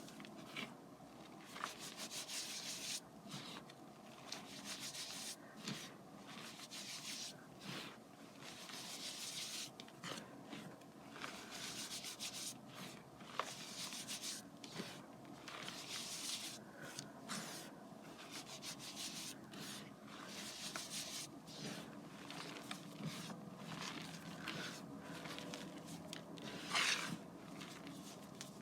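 Gym chalk being crushed and crumbled by hand, soft and crispy, in repeated short bouts with brief pauses, with one louder crunch near the end.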